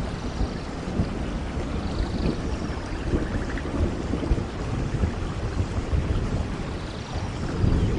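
Heavy, steady rain with a low, rumbling undertone of thunder that swells and eases.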